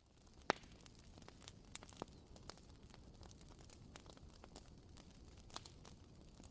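Wooden wick of a WoodWick candle crackling faintly: irregular small pops and ticks over a low steady hiss, with one sharper pop about half a second in.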